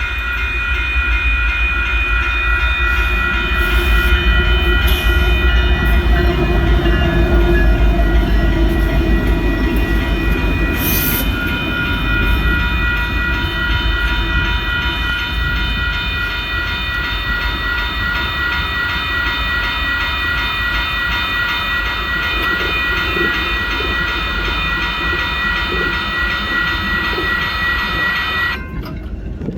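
A train rolling past close by: a steady low rumble of the train on the rails, with steady high ringing tones above it. The sound cuts off abruptly near the end.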